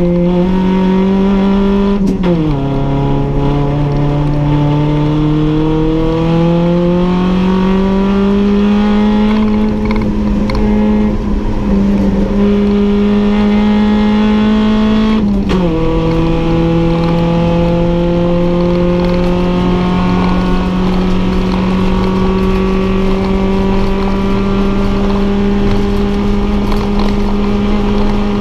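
Toyota 4A-GE 1.6-litre twin-cam four-cylinder racing engine heard from inside the stripped cabin, running at high revs under load. The pitch drops suddenly about two seconds in and again about halfway through, as at upshifts, and each time climbs slowly again as the car pulls through the gear.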